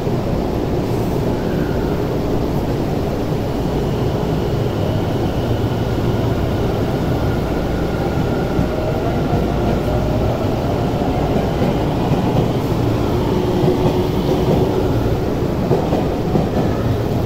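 Tobu 50070 series electric train pulling out of an underground platform and accelerating past, with a steady low rumble and a motor whine that rises in pitch as it picks up speed.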